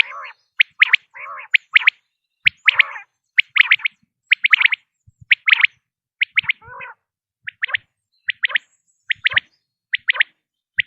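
Common quail calling: quick phrases of two or three sharp, high notes, repeated about once a second, with softer, lower notes between phrases in the first half.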